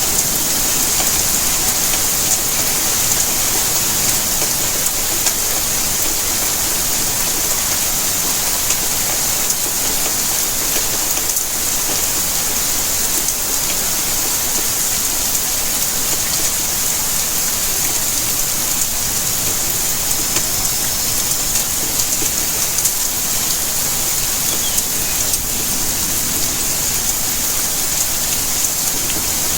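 Steady rainfall, an even hiss with many small drop ticks.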